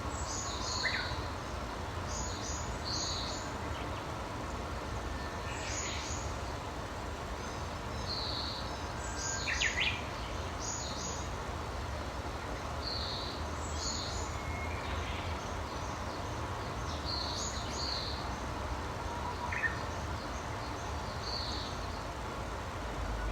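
Small birds chirping in short, high, clipped notes, often in quick pairs or triplets, repeating every second or two. Beneath them runs a steady low rumble of outdoor background noise.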